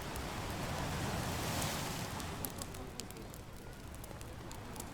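Beach bonfire crackling with sharp pops over the rush of surf; a wave swells and washes in about a second or two in, then recedes.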